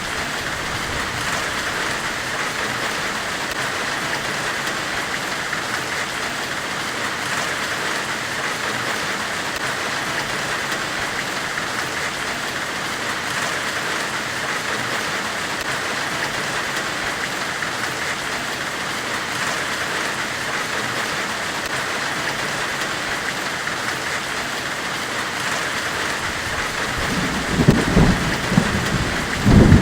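Steady forge-themed white-noise hiss, strongest in a band around 2 kHz. Near the end come two short spells of louder low booms.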